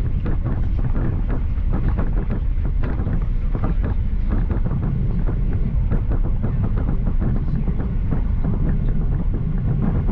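Cabin noise inside a Boeing 737-800: a steady, loud low rumble from its CFM56-7B engines and airframe, with frequent small rattles and knocks throughout.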